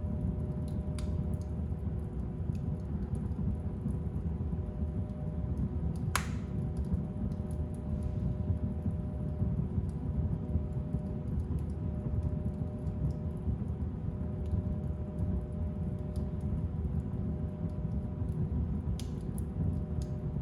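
Fire burning in a fireplace: a steady low rumble of flames with scattered small crackles and one louder pop about six seconds in.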